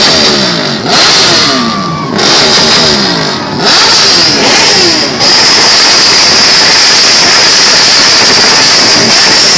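Motorcycle engines revving hard, several times, each rev's pitch falling away afterwards. Under the revs runs a loud, constant hiss-like noise.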